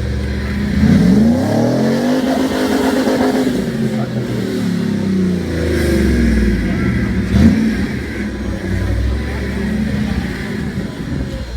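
Jeep J-series pickup's engine revving up and down repeatedly under load while rock crawling, with a brief sharp bang about seven and a half seconds in.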